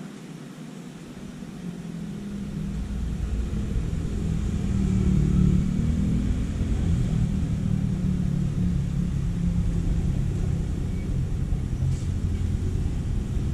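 Low rumble of a train on a steel truss railway bridge. It builds over the first few seconds and then holds steady.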